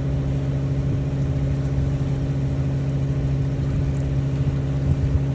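Sailboat engine running at a steady speed: an even, unchanging hum.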